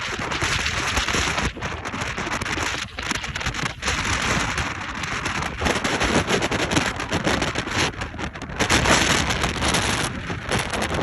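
Strong gusting storm wind rushing and buffeting the microphone, swelling and easing, loudest about nine seconds in.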